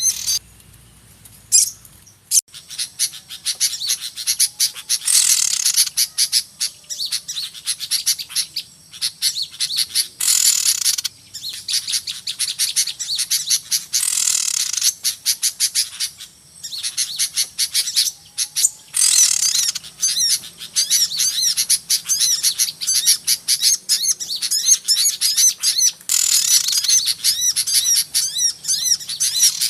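Dense, noisy chorus of many small songbirds chirping and twittering rapidly in high-pitched calls, a lure recording used to call small birds in for trapping. It starts after a short pause and then runs on with only brief dips.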